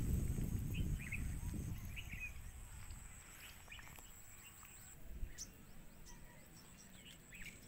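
Small birds chirping in short calls about once a second, over a thin steady high tone that stops about five seconds in. A low rumble fades away over the first two seconds.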